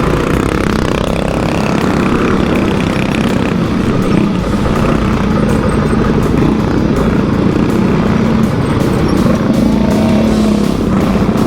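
Small single-cylinder minibike (boonie bike) engines running at a race.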